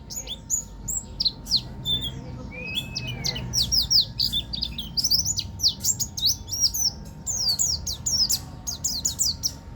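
Buktoni songbird singing rapid-fire runs of high, down-slurred whistled notes in quick bursts. Near the middle there is a single lower, arching whistle.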